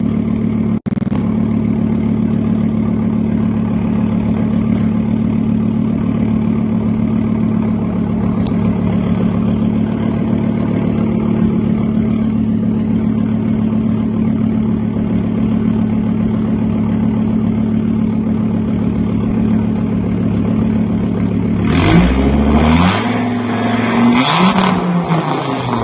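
Volvo car engine idling steadily, then revved twice near the end, the pitch climbing and falling each time.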